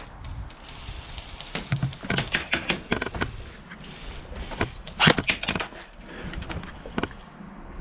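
Airsoft guns firing: a rapid string of sharp shots about a second and a half in, a louder burst about five seconds in, and a few single shots between and after.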